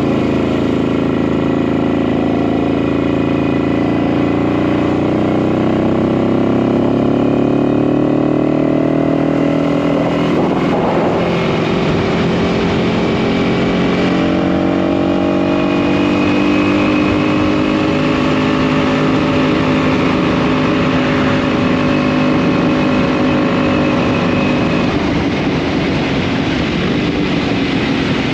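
DKW RT 200H's single-cylinder two-stroke engine running under way. Its pitch climbs steadily for about ten seconds, breaks briefly as a gear changes, then holds fairly steady.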